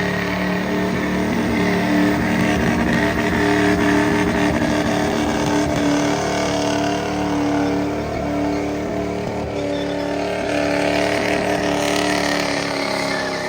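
Truck engine held at steady high revs, easing off slightly about eight seconds in and then picking back up.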